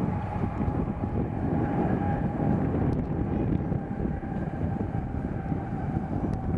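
Jet airliner engines running with a steady high whine that drops slightly in pitch, under heavy wind buffeting on the microphone.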